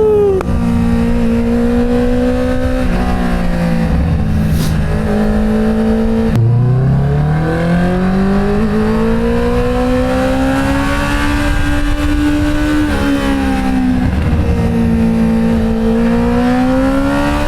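Inline-four engine of the vehicle being driven, revving up and down through its gears: its pitch drops at shifts about three and six seconds in, climbs steadily for several seconds, dips and rises again near the end.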